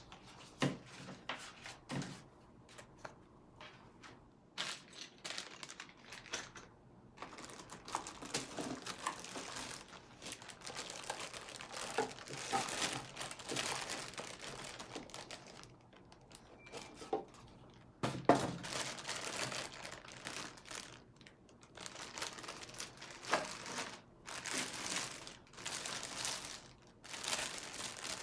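Packaging being handled during unboxing: plastic and paper wrappings crinkling and rustling in irregular bursts, with scattered knocks and one sharper knock about two-thirds of the way through.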